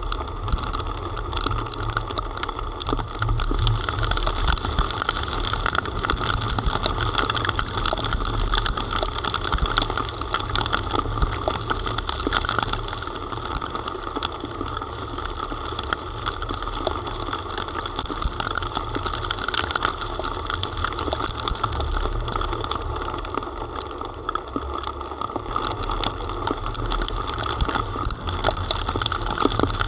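Heavy rain hitting the camera and its surroundings: a dense, steady patter with many sharp drop clicks close to the microphone, over a steady low rumble of a car engine running.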